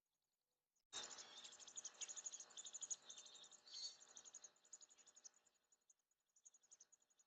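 American robin nestlings begging: a sudden burst of rapid, high-pitched chirping about a second in, fading away over several seconds.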